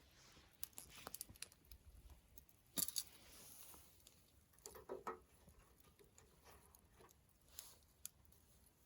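Wood campfire crackling faintly, with scattered irregular pops and snaps; the loudest pair of snaps comes about three seconds in, followed by a brief hiss.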